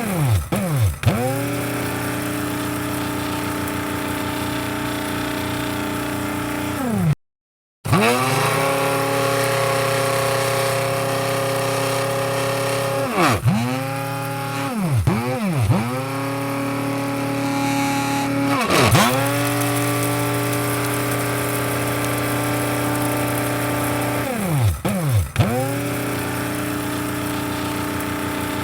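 Electric coffee grinder's motor running with a steady whirring hum. Several times (about a second in, around the middle and near the end) its pitch sags and climbs back up as the motor briefly winds down and spins up again, and about seven seconds in the sound cuts out abruptly for half a second.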